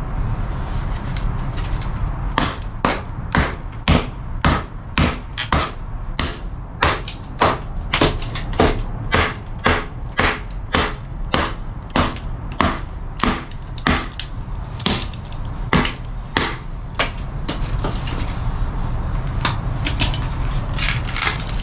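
Batoning: a wooden baton hammering a blade down through a branch section to split it lengthwise, a steady run of sharp wooden knocks about two a second, starting a couple of seconds in.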